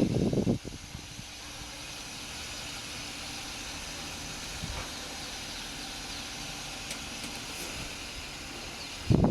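Suzuki Escudo's H27A 2.7-litre V6 engine idling steadily with an even hiss. A loud low rumble cuts off about half a second in, and another short one comes near the end.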